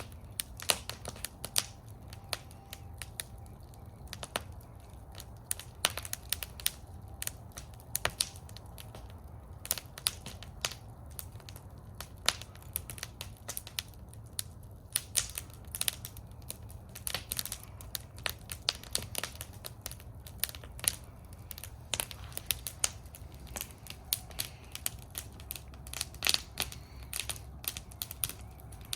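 Wood fire burning in a metal fire bowl, crackling and popping with irregular sharp snaps over a low steady rumble of the flames.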